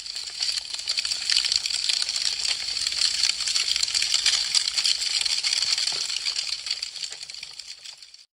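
Wood fire crackling: a dense, continuous stream of small sharp crackles and pops from burning branches, fading out near the end.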